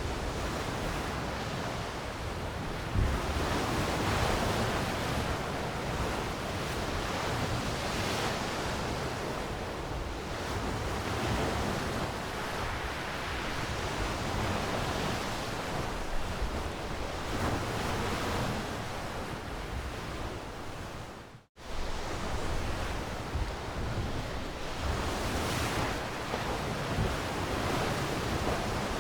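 Ocean waves washing on a shore, a steady rush that swells and eases every few seconds. The sound cuts out for an instant about two-thirds of the way through, then carries on.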